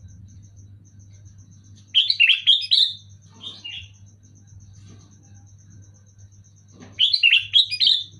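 Sooty-headed bulbul (kutilang) singing two short phrases of quick, bubbly, rising-and-falling notes about five seconds apart, with a softer brief call between them. A fast, steady, high ticking and a low hum run underneath.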